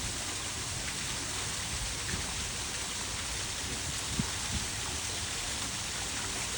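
Steady rushing and splashing of a spa pool's waterfall pouring into the water, with a single small knock about four seconds in.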